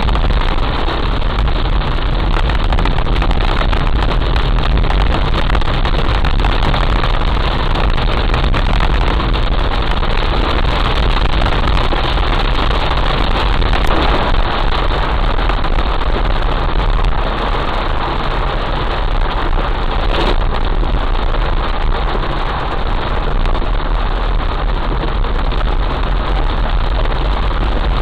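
Heavy rain pouring steadily: a dense, even rush of noise with a deep rumble underneath, unchanging throughout.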